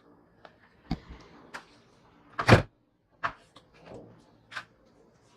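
A few irregular knocks and clunks of hard parts being handled, the loudest a heavy clunk about two and a half seconds in.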